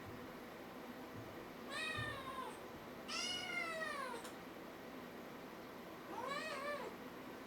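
A kitten meowing three times, high-pitched calls, the second longer and falling in pitch, the last rising and then falling.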